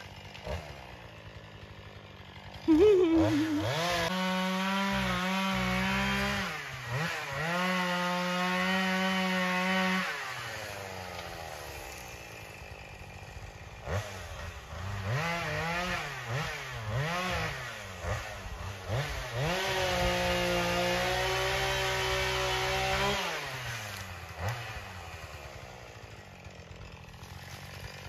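Two-stroke chainsaw revved to full throttle and held there twice, for about six seconds and then about three, with quick throttle blips in between. It drops back to a low idle after each run.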